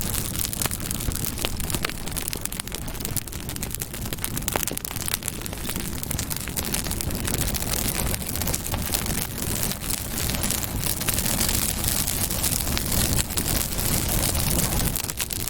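Campfire burning steadily, with many small sharp crackles and pops over a low rumble of the flames.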